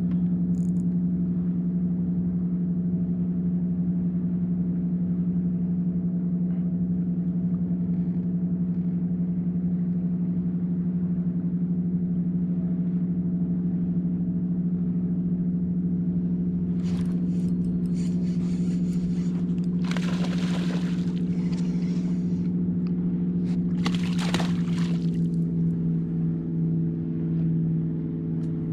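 Steady motor hum with a strong low drone, its pitch shifting slightly near the end, with a few short hissing noises in the second half.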